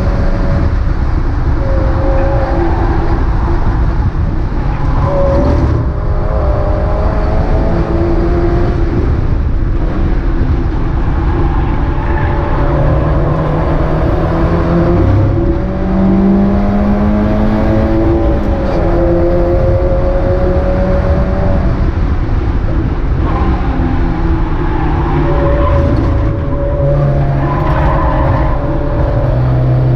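Mazda MX-5 race car's four-cylinder engine running hard under load, its pitch rising through the revs and dropping briefly every few seconds as gears change and the car brakes for corners.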